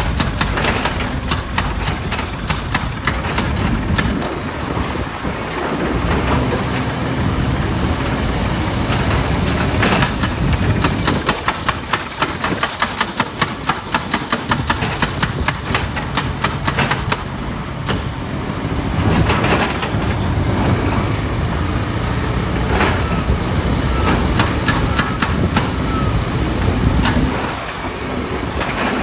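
Heavy stone-crushing machinery running with a steady low rumble, overlaid by many sharp knocks and clatters of rock against steel, with a dense run of rapid knocks through the middle.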